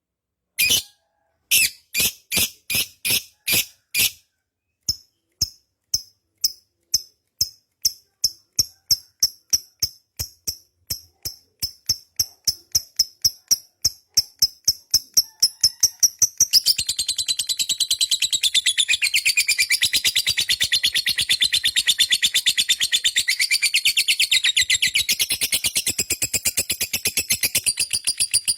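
Lovebird's long 'ngekek' chatter: sharp repeated high chirps, spaced at first and steadily speeding up, that merge about halfway through into one continuous rapid chattering trill.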